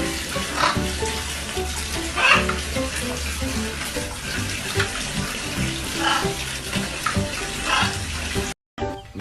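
Water running from a tap, a steady rush with short louder bursts every second or two, over background music; it cuts off suddenly near the end.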